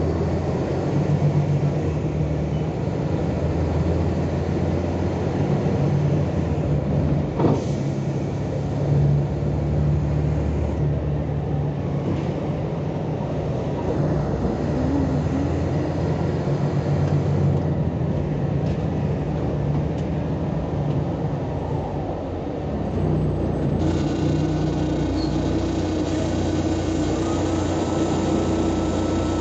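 Diesel engine of a Volkswagen Volksbus 18-280 OT LE city bus running as the bus drives. Its pitch steps to a new level about 23 seconds in, as the engine speed changes. There is one sharp click about seven and a half seconds in.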